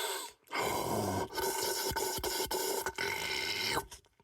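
Fingers scraping and rubbing inside a cardboard Pringles tube, reaching for the last chip, in several stretches with short breaks, stopping shortly before the end.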